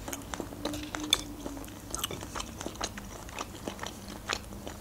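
Close-miked chewing of a bite of fried sausage: wet mouth clicks and smacks, several a second, irregular.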